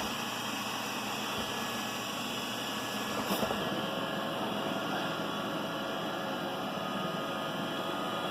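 iRobot Roomba 960 robot vacuum running on carpet: a steady whirring hum from its vacuum motor and brushes, with a slight rise a little over three seconds in.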